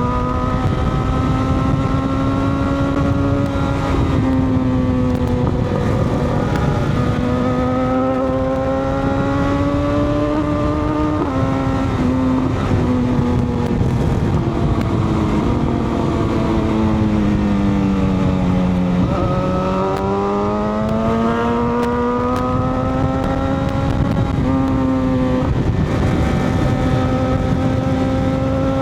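A motorcycle engine pulling under way, its pitch rising and falling with the throttle, with a few quick steps in pitch at gear changes. A heavy rumble of wind noise runs underneath.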